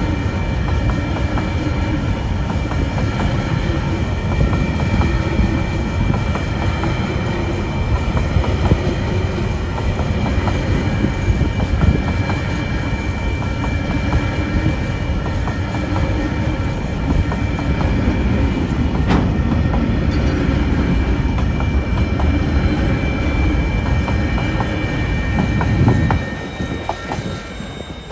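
Freight train wagons rolling past on the rails, with wheel clatter and a steady high wheel squeal. The noise falls away suddenly near the end as the last wagon goes by.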